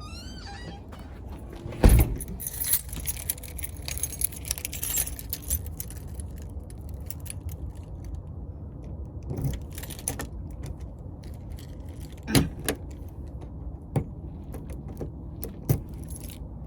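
Keys jangling and clattering, with a heavy thump about two seconds in and several sharp knocks later on, over a low steady rumble.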